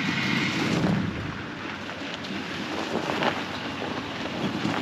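Wind buffeting the microphone, a rumbling noise that is heaviest in the first second or so and then settles to a steady rush with a few faint clicks.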